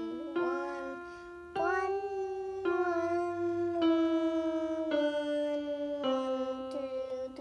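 Keyboard playing a slow run of held notes, six in all, each struck sharply and left to fade, stepping mostly downward in pitch.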